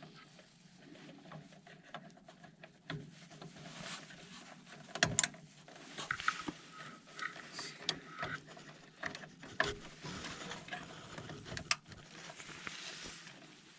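Scattered clicks and light knocks of parts being handled and fitted as the furnace's control board and panel are put back in place, with a few sharp clicks standing out.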